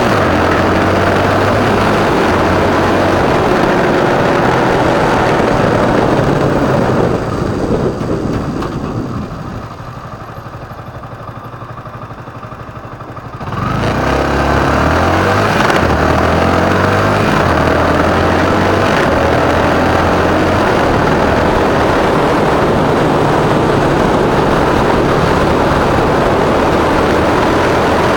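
Motorcycle engine running under a dense rushing noise while riding. The sound fades for several seconds as the bike slows, then comes back suddenly about halfway through as the engine picks up and accelerates away.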